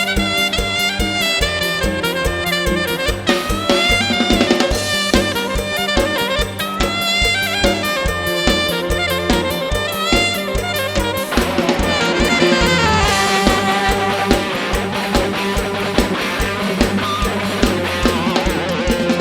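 Instrumental break of a mor lam band: a drum kit keeps a fast, steady beat with kick and snare under a sustained melody line, with no singing.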